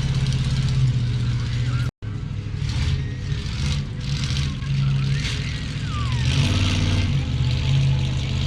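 Monster truck engine running loudly, its note rising about six seconds in as it revs up. The sound cuts out completely for a moment about two seconds in.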